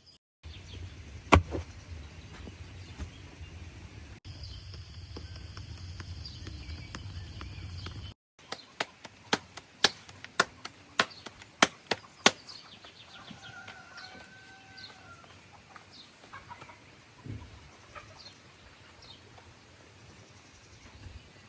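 A steady low rumble with one sharp knock, then a run of about nine quick chopping strikes, followed by a chicken's short calls.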